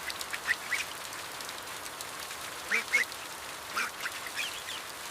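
Short, high animal calls, several coming in quick pairs, over a steady hiss of rain; the loudest pair comes near the middle.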